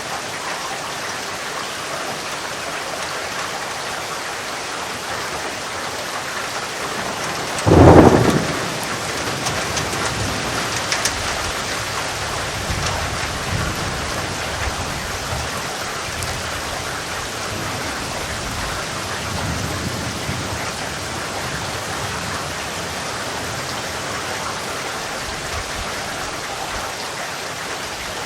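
Steady heavy rain falling, with a sharp thunderclap about eight seconds in followed by several seconds of low rolling thunder.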